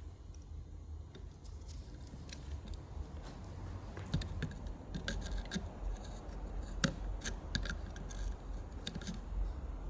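Small alternator parts being handled and worked on: irregular light clicks and scrapes, coming thicker from about four seconds in.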